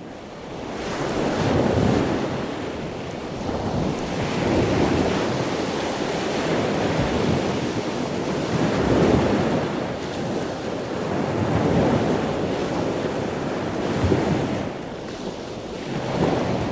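Running water in a backyard fish pond, a steady rushing with wind buffeting the microphone, the level swelling and easing every two or three seconds.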